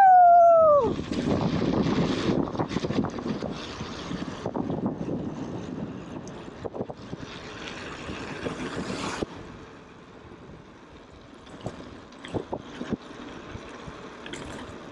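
A long falling whoop at the start, then a mountain bike rolling down a rough trail: wind on the microphone with scattered rattles and knocks. The noise drops to a lower steady hiss about nine seconds in.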